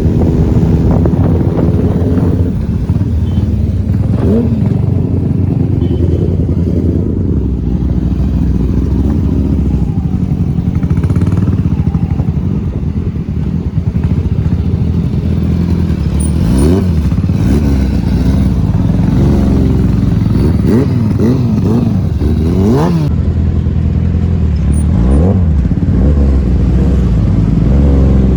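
Kawasaki ZX-10R superbike's inline-four engine running on the move, with a series of quick revs rising and falling about halfway through and again near the end.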